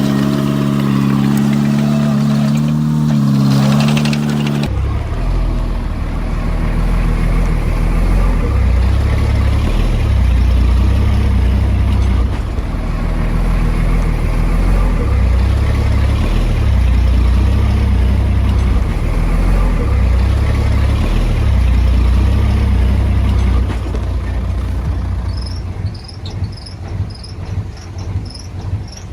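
Heavy diesel earthmoving machinery running. A steady idle gives way, after a cut about five seconds in, to a deep rumble that rises and falls as the engine works. Near the end the engine drops back and insects chirp in a quick steady rhythm.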